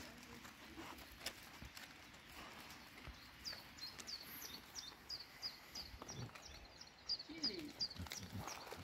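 A small bird singing a quick series of short, high falling notes, about three a second, starting a few seconds in. Near the end there are a few dull low thumps and rustles close by.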